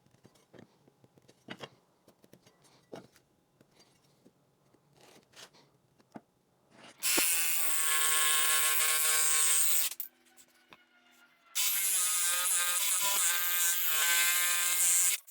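Jigsaw cutting a taper in a wooden board, its motor running in two loud, steady runs of about three seconds each with a short pause between. Before the cut, a few faint clicks and handling knocks.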